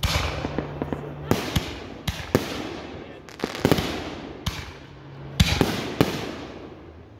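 Consumer aerial fireworks going off: a run of sharp bangs, several close together, each followed by fading crackle as the stars burst.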